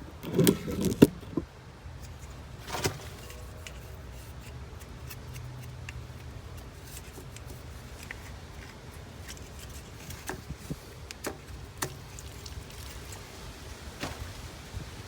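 Handling noise from PVC pipe work: a short burst of knocking and scraping about half a second in, a single knock a couple of seconds later, then scattered light clicks and taps over a steady low hum.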